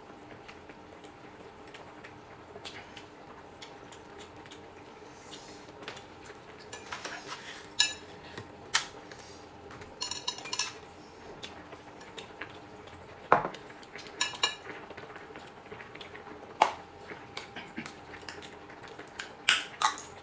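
Tableware clinking during a meal: scattered sharp clinks of utensils against bowls and plates, a few of them loud, coming more often after the first third, over a faint steady hum.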